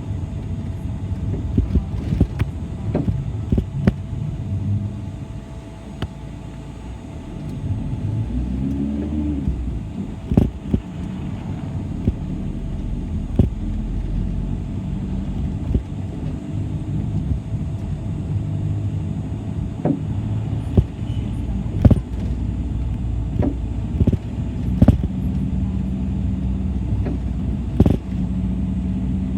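City bus heard from inside the passenger cabin: a steady low engine and road rumble, with sharp rattles and knocks here and there and a brief lull about a quarter of the way in.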